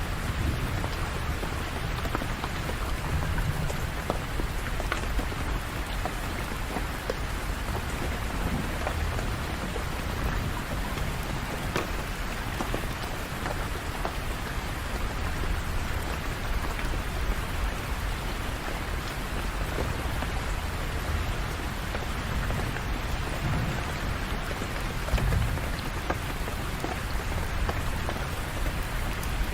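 Steady rain falling, with low rolls of thunder now and then, one of them about 25 seconds in.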